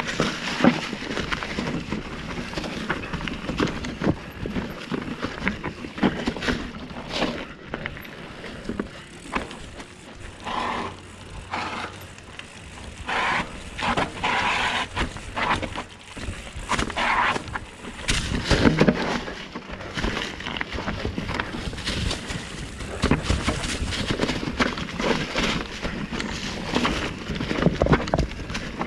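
2019 Commencal META Trail 29 mountain bike riding down a rough, rocky trail: tyres crunching and thudding over rock, with the frame and drivetrain rattling and clattering. There are many short knocks and a heavy hit a little past halfway.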